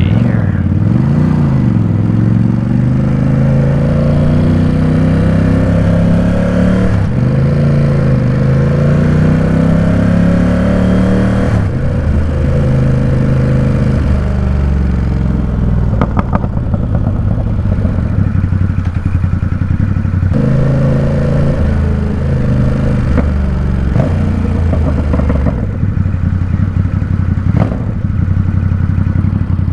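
Ducati Supersport 950 S's 937 cc L-twin engine under way. It revs up and falls back several times through the first dozen seconds, as if pulling through gears, then drops to low, steady running with a short pick-up of revs partway through.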